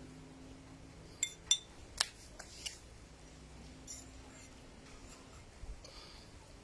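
A few sharp clicks and taps, five or so close together in the first half, over a faint steady hum.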